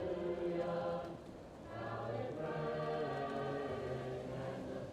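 Choir singing slow held chords, muffled as if heard from another room: one phrase in the first second, a brief dip, then a longer sustained chord to near the end.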